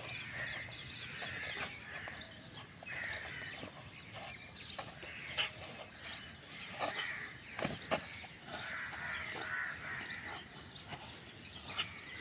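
Birds calling again and again, with scattered sharp clicks and rustles between the calls; the loudest click comes about eight seconds in.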